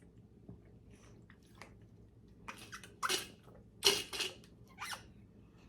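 Quiet room hiss, then a handful of short rustling noises between about two and a half and five seconds in, the loudest about four seconds in.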